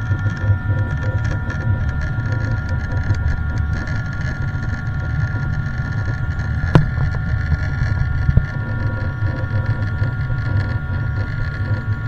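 Jet engines heard from inside an airliner cabin: a steady low rumble with a constant whine. Two sharp clicks come partway through.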